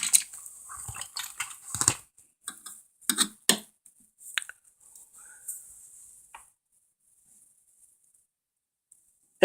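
Small diecast toy vehicles clicking and clattering as they are handled and set down: a quick run of clicks in the first two seconds, then a few scattered knocks, the last about six seconds in.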